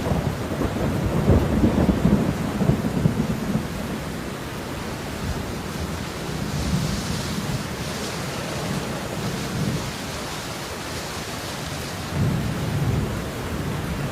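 Steady rain, an even hiss throughout, with low rumbles of thunder louder in the first few seconds and again near the end.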